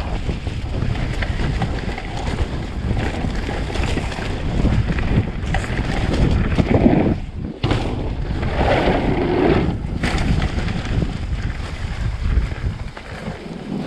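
Wind buffeting the microphone: a steady low rumble that swells louder about six seconds in and again about nine seconds in.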